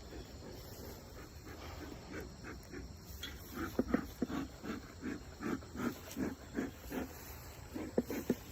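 Rhythmic panting, about three breaths a second, starting a few seconds in; a few sharp clicks near the end.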